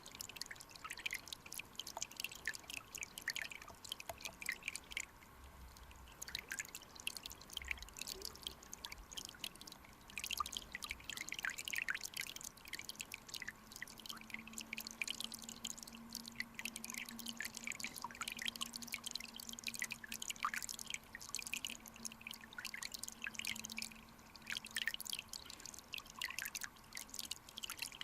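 Clear mountain-stream water bubbling and trickling, full of small irregular drips and plinks, with a short lull about five seconds in. A faint steady low hum runs under it through the middle.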